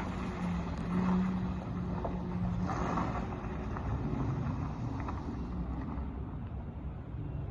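1991 Mitsubishi Minicab kei truck's small three-cylinder engine running as the truck is driven, a steady hum over road noise; the hum fades about three-quarters of the way through.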